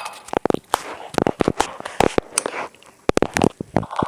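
Ceiling fan parts being forced and broken apart: irregular sharp cracks, knocks and crunches coming in several quick flurries.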